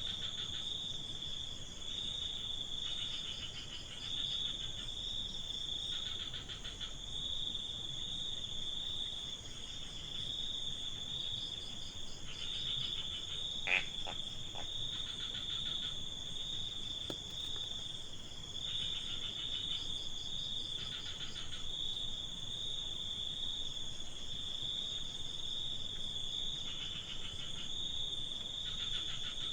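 Night crickets: a continuous high-pitched trill, with a second caller chirping in pulsed bouts about a second long every few seconds. One brief sharp sound about halfway through.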